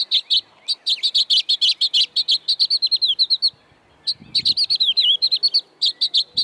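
A songbird chirping in fast, repeated runs, about seven chirps a second, with a short break about halfway through.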